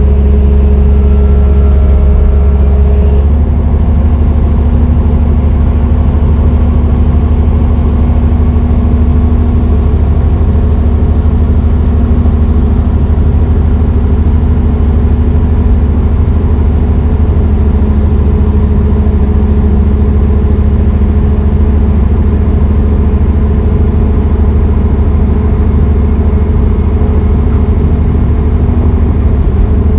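Heavy diesel engine running steadily with a deep, constant drone; about three seconds in its note changes and it gets slightly quieter, then holds steady.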